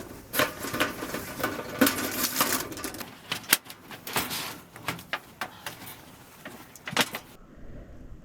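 Irregular clicks and knocks, coming in quick succession, that stop abruptly about seven seconds in.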